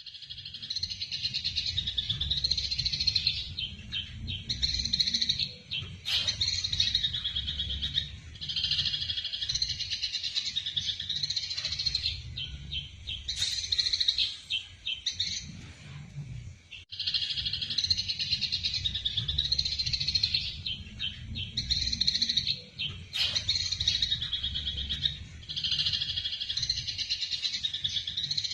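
Eurasian tree sparrows chattering in fast, continuous chirps: the excited calls of sparrows fighting, with a short break just before the middle. A steady low rumble runs underneath.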